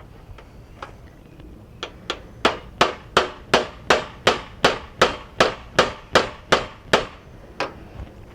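Hammer driving a fastener, a steady run of about fifteen blows at roughly three a second that starts about two seconds in and grows louder, with one last blow near the end.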